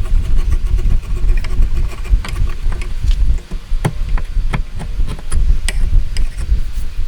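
Irregular sharp taps and knocks of hand tools working wood, several in a row, over a heavy low rumble of wind on the microphone.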